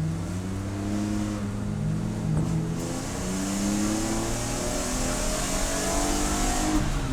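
Race car engine accelerating under load, its pitch climbing steadily for several seconds and then dropping sharply at an upshift near the end, after an earlier shift about a second and a half in.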